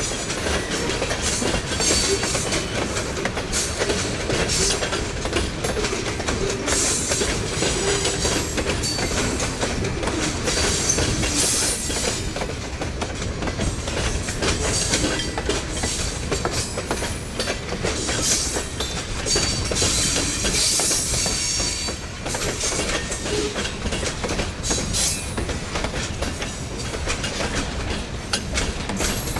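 Train cars rolling past, a steady rumble of wheels with repeated clicks over the rail joints and a few stretches of high-pitched wheel squeal.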